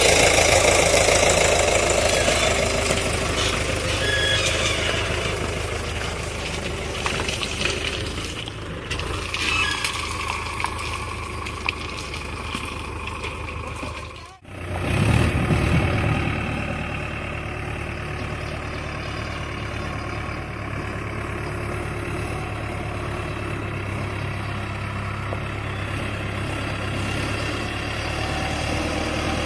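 Sonalika Tiger tractor's diesel engine running steadily. The sound drops out abruptly about halfway through, then comes back and runs on a little quieter.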